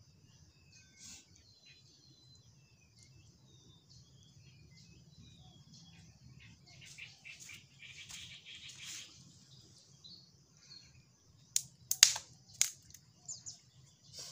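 Birds chirping, with many short chirps over a steady high hiss, and a busier stretch about halfway through. A few loud, sharp clicks come close together near the end.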